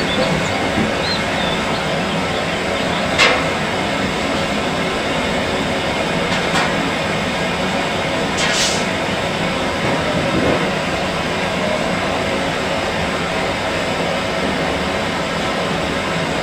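A loud, continuous rumbling noise, with two brief sharp sounds about three and eight and a half seconds in.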